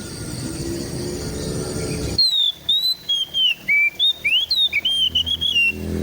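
Oriental magpie-robin singing a run of clear, sliding whistled notes, starting abruptly about two seconds in and lasting about three and a half seconds. Before it, a low rising hum with a steady high whine.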